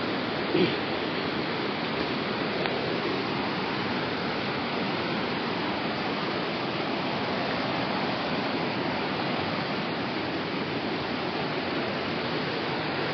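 Steady rushing of flowing water from a waterfall, with a short louder sound about half a second in.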